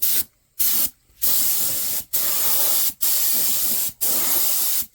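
Spray paint can hissing in bursts as the nozzle is pressed and released: one short spray, then four longer sprays of about a second each, with brief breaks between them.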